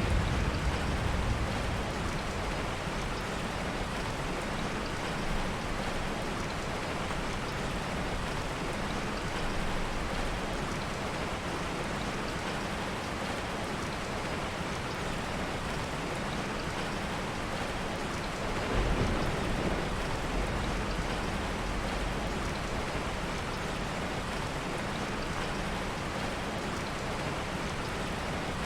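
Heavy rain falling in a steady hiss, with low rumbles of soft thunder at the start and again about two-thirds of the way through.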